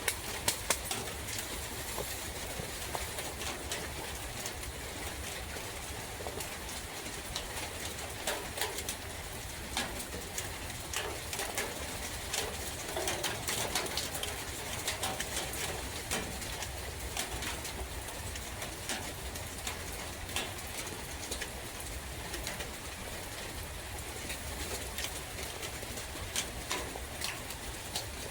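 Steady rain in a forest, with many sharp drip ticks, and a bird cooing now and then, mostly through the middle.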